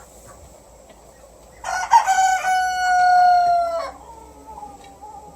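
A rooster crowing once: a single drawn-out crow of about two seconds that sinks slightly in pitch toward its end.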